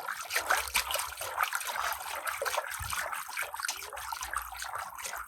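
Running water trickling and splashing steadily over toy vehicles as they are washed of mud.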